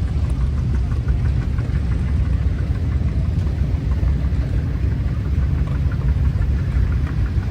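An engine running steadily, a low, even rumble.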